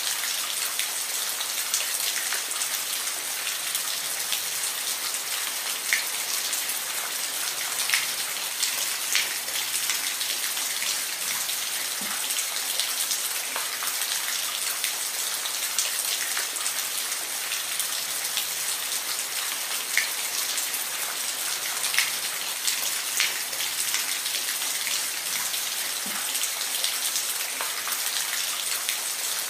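Steady rain falling, an even hiss with individual drops tapping distinctly every second or so.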